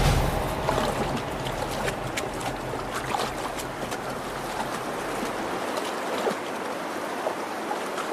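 Shallow salmon stream rushing steadily over rocks, with a short loud burst right at the start.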